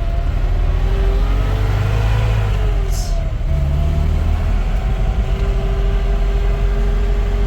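Motor vehicle engine running with a heavy low rumble, its pitch drifting up and down a little; a brief click about three seconds in.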